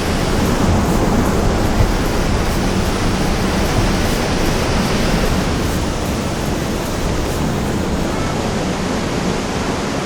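Tall waterfall plunging into its pool, a loud, steady, even rush of falling water.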